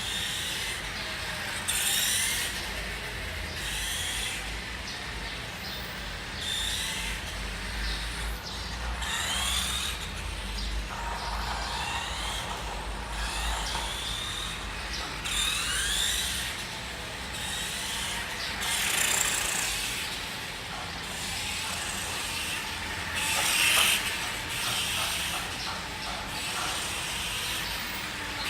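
Electric motor and gear train of a Nikko 1:5 scale RC Ducati motorcycle running, its transmission freshly repaired, whining up in pitch again and again as the bike speeds up, with bursts of rushing noise between.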